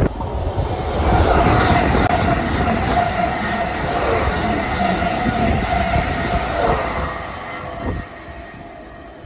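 A train passing, with a steady high squeal from its wheels over several seconds; the sound falls away about eight seconds in.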